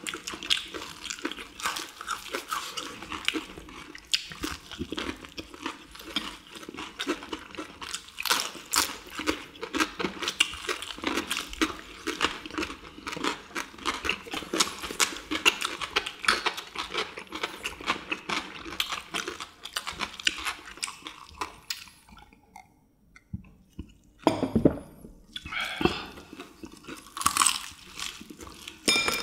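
People biting and chewing crisp deep-fried chicken in perilla-leaf batter, with dense, irregular crunching close to the microphone. The crunching stops briefly about three-quarters through, then a dull thump, the loudest sound here, and more crunching near the end.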